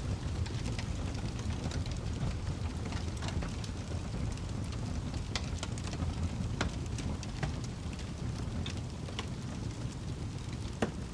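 Wood fire crackling in a fireplace: a steady low rumble of burning with scattered sharp pops, the loudest near the end.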